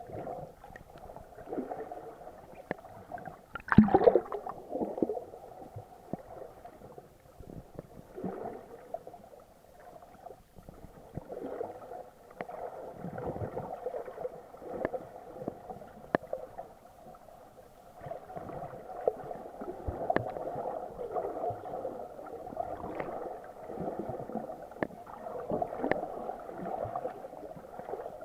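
Muffled water sloshing and gurgling, heard through an action camera's waterproof housing, with a louder burst about four seconds in.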